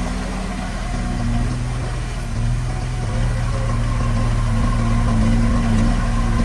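Diesel engine of a piece of heavy earthmoving equipment running steadily, a little louder from about two and a half seconds in.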